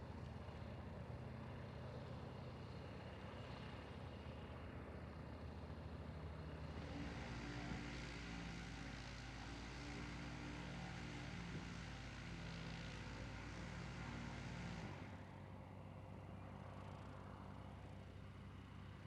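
Light propeller aircraft's piston engine running steadily; about seven seconds in it grows louder and fuller, then drops back suddenly about fifteen seconds in.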